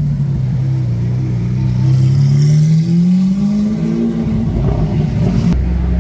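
Lamborghini Aventador's V12 engine running loud, its pitch dipping slightly and then climbing steadily as it revs up. Near the end it cuts abruptly to a steady, lower engine note.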